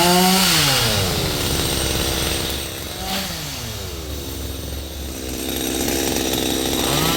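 Two-stroke chainsaw revved and let fall back: the engine speed drops away over about a second, blips briefly about three seconds in, and runs lower before revving up again near the end.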